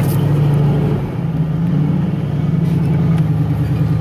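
Off-road 4x4's engine running steadily, with a few faint knocks.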